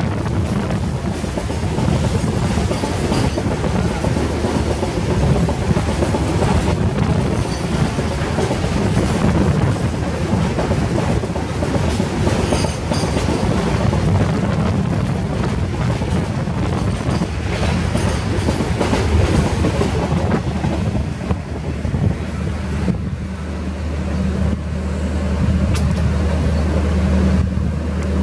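Passenger train running on the track, its wheels rumbling and clattering, heard through an open coach window. In the last few seconds the clatter eases and a steady low engine hum takes over.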